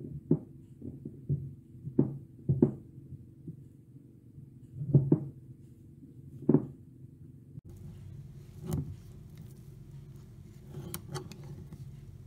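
Dull knocks and taps of a metal cake server against a glass baking dish while cutting through soft cake, about six in the first seven seconds over a low steady hum, then a few sharper clicks near the end.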